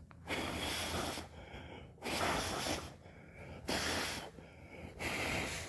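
Four puffs of breath blown across the foam-filled gap in a Ford Bronco hardtop, each a breathy rush lasting under a second, with short pauses between.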